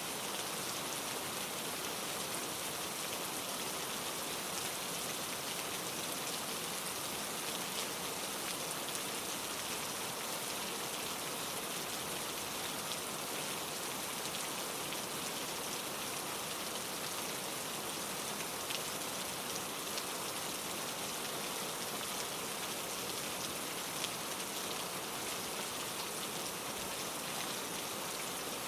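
Steady rain: an even hiss with faint individual drop ticks scattered through it.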